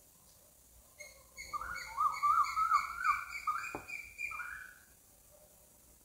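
A bird singing: a run of quick, wavering whistled notes that starts about a second in and lasts about four seconds.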